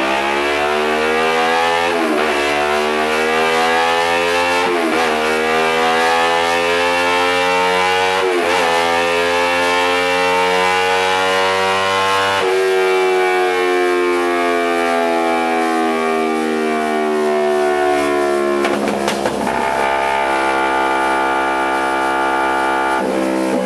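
Kawasaki Ninja 250R parallel-twin engine breathing through an aftermarket performance exhaust, running at high revs. Its pitch glides slowly up and down, with a few sharp dips and a couple of brief breaks.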